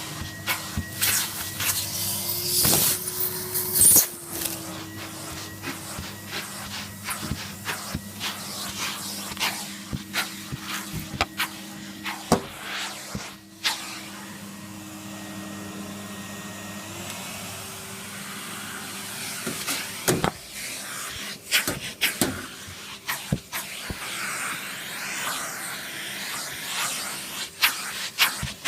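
Numatic Henry NVR 200 cylinder vacuum cleaner running with a steady motor hum, broken by many sharp clicks and knocks. The motor note shifts slightly higher a little over halfway through. It is running freshly cleared of a clog of builder's dust and debris, now working properly.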